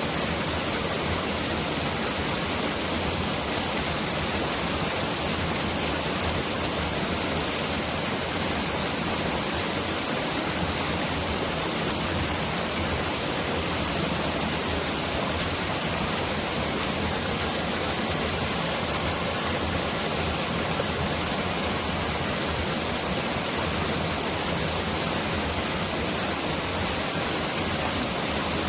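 Mountain stream rushing over rocks in a valley, a steady full rush of water, much like heavy rain.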